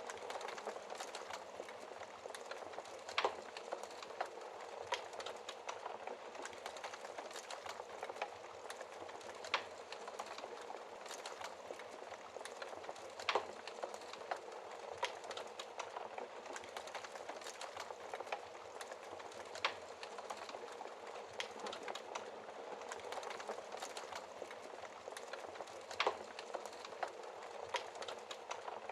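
Wood fire crackling in a fireplace: a steady hiss of small crackles with a louder sharp pop every few seconds, about five in all.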